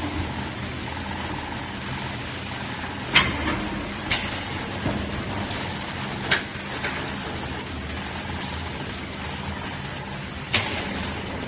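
Factory machinery of an enamel production line for water-heater inner tanks running with a steady noise, broken by four sharp knocks, the loudest about three seconds in.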